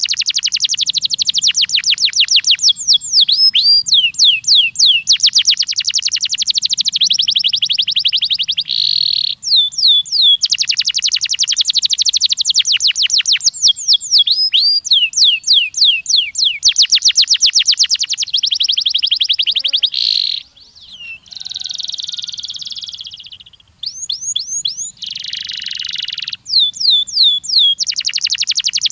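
A domestic canary singing a long, varied song of rapid trills and rolls, each phrase a fast run of repeated high notes. There are brief pauses between phrases, and a softer buzzy passage about two-thirds through.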